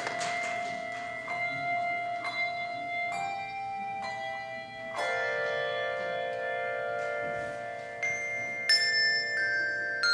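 Handbell choir playing, struck chords ringing on at length. Fresh notes come in about three seconds in, a fuller chord about five seconds in, and a few more notes near the end.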